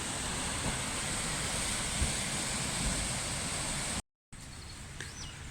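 Steady outdoor rushing noise with a few low thumps on the microphone; it cuts out suddenly about four seconds in and comes back quieter.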